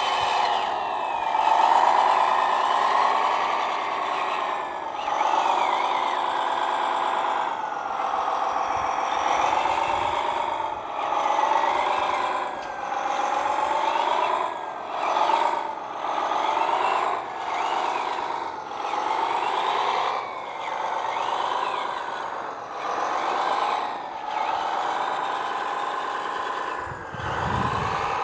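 Scale RC Hayes HD logging truck's electric drive, a cordless-screwdriver motor and gearbox, whining as it drives loaded. The pitch rises and falls every second or two with the throttle, and thin higher whines sweep up and down now and then.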